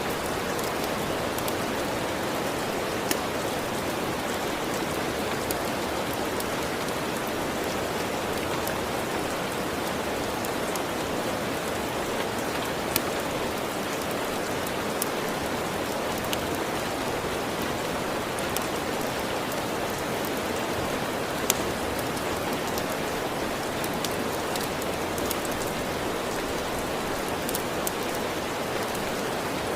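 Steady rain falling in an even hiss, with a few sharp crackles and pops from a wood fire scattered through it.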